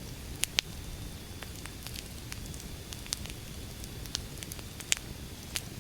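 Wood fire burning: a steady low rumble of flame with irregular crackles and sharp pops of burning firewood, the loudest pops about half a second in and about five seconds in.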